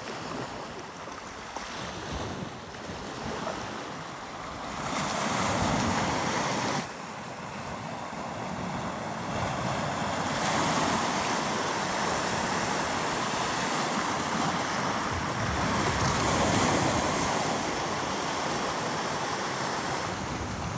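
Small waves washing on a beach, the noise swelling and easing every few seconds, with wind buffeting the microphone.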